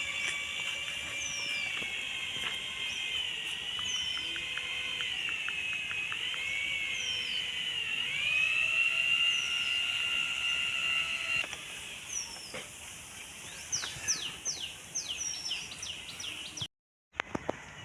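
Short high falling chirps repeating about every second and a half, with a quick flurry of chirps near the end. Under them runs a steady, wavering whine that stops about eleven seconds in.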